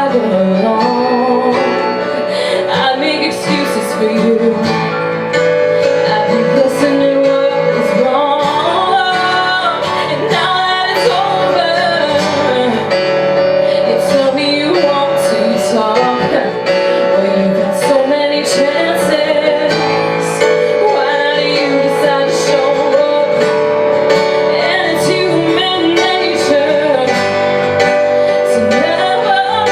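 Live music: a woman singing her song over instrumental accompaniment.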